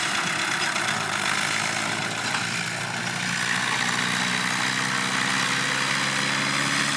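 Tractor diesel engine running at a steady speed, with a constant hum and a strong background of mechanical noise.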